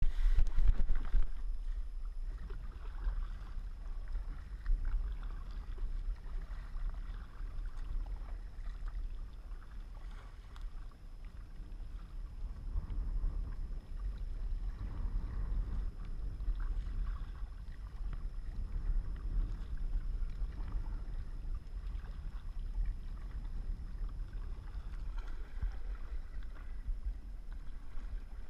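Kayak paddling on open water: paddle splashes and water sounds under a steady wind rumble on the microphone. There is a louder knock or handling noise in the first second.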